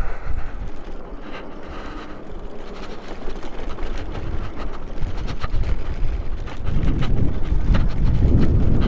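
Wind buffeting the microphone while riding an electric bike over a bumpy dirt trail, with scattered knocks and rattles from the bike jolting over ruts. The wind rumble is lighter early on and gets much louder about two-thirds of the way through.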